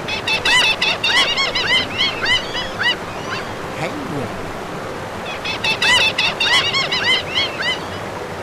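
Birds calling in two bouts of quick, short rising-and-falling notes, several a second, over a steady rushing noise.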